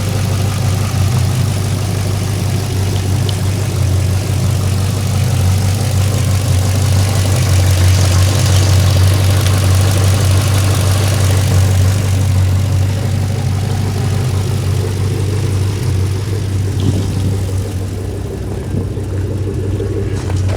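A 2010 Camaro SS's 6.2-litre LS3 V8 idling steadily, growing a little louder midway and easing off again near the end.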